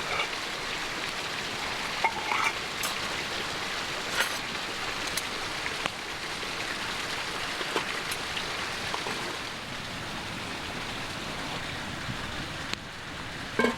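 Small creek running, a steady rushing of water, with a few scattered sharp ticks over it.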